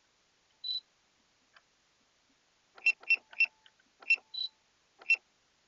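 Electronic sounds from a drone's remote controller: a short high beep, then five sharp clicks spread over about two seconds, with a second short beep among them.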